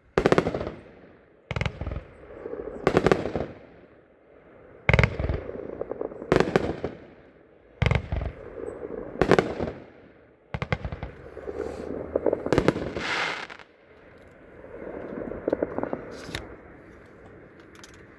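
Fireworks cake (a 24-shot repeater) firing its shots one after another. Each shot is a sharp bang with a fading crackle and hiss after it, about one every second or so.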